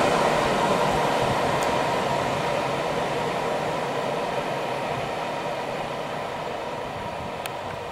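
Freight train of empty flat wagons rolling away along the track, its rumble of wheels on rail fading steadily into the distance.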